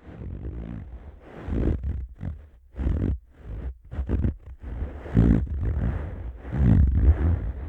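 Palms rubbing together right against the ears of a Neumann KU100 dummy-head microphone: irregular swishing strokes with a deep rumble.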